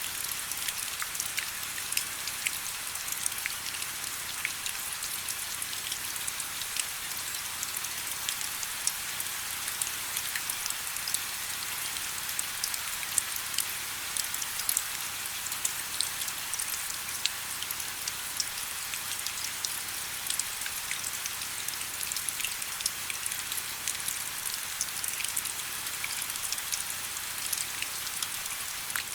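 Steady rain falling, a soft high hiss with many separate drops ticking through it.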